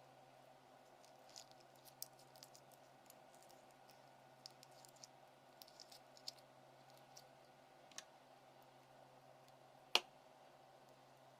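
Daiso slime being squeezed and worked in the hands: faint, scattered sticky clicks and small pops over a low steady hum, with one sharper click about ten seconds in.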